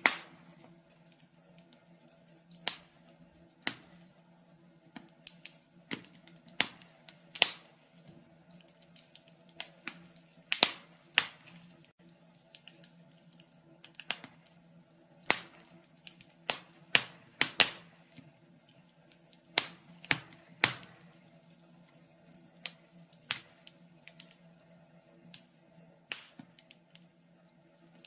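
Burning logs in a fireplace crackling, with irregular sharp pops and snaps, some louder than others, over a faint steady low hum.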